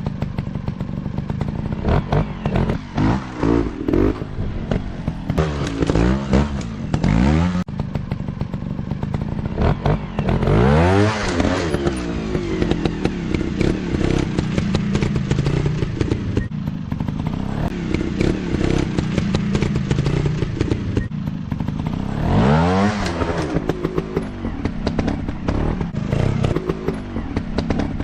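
Dirt bike engines revving under repeated bursts of throttle, the pitch climbing and dropping again and again. The strongest climbs come about eleven seconds in and again near twenty-three seconds.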